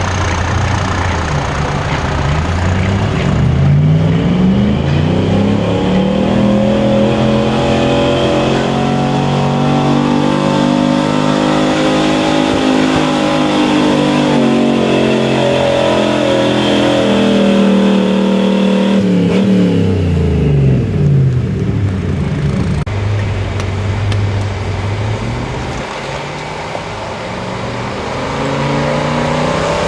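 A pulling truck's engine revs up over the first few seconds and holds at high revs for about a dozen seconds under load on a pull down the track. Around twenty seconds in it winds back down to a low idle, then starts revving up again near the end.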